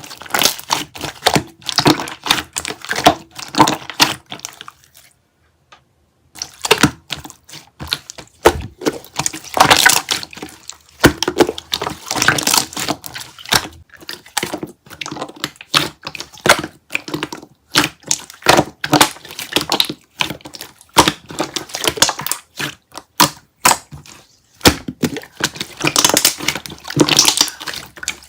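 Slime being squished and played with, a dense run of sticky clicks, pops and crackles, with a brief silent break about five seconds in.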